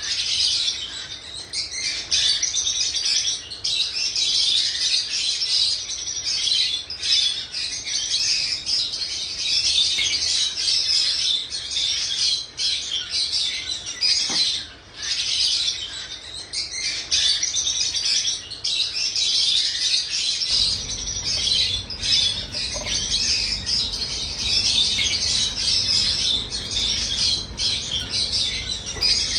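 Pet birds chirping and tweeting continuously, many short high chirps overlapping with only brief pauses. A faint low hum joins underneath about two-thirds of the way through.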